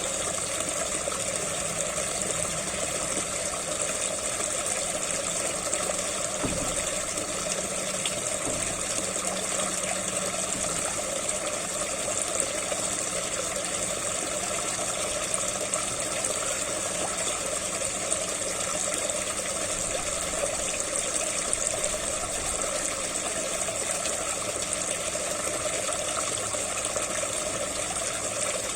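Water from a SunSun JTP-5800 pond pump gushing steadily into the pond, an even splashing rush with no change throughout.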